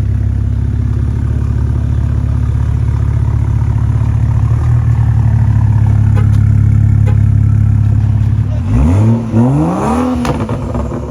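Car engine running with a loud, steady low drone, then revved up and down two or three times in quick blips near the end.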